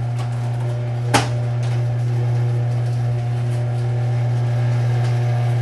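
Electric garage door opener motor running with a steady hum, with one sharp click about a second in.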